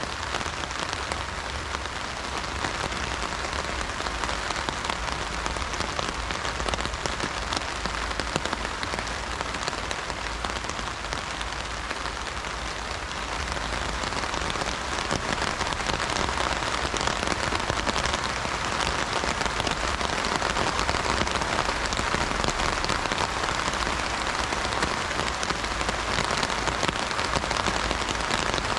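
Heavy rain drumming on an umbrella canopy in a dense, steady patter of drops, growing a little heavier about halfway through.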